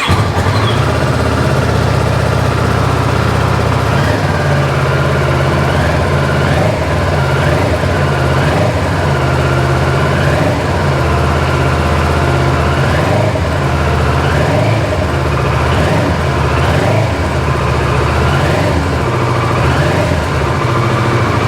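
Kawasaki ER-6f's 649 cc parallel-twin engine idling steadily through its exhaust just after being started.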